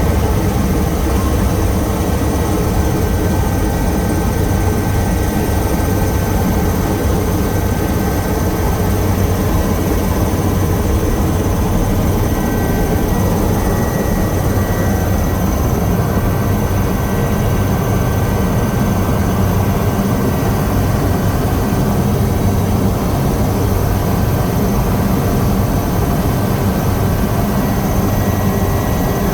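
Helicopter in flight, heard from inside the cabin: a steady drone of engine and rotor with a low hum and faint high whines.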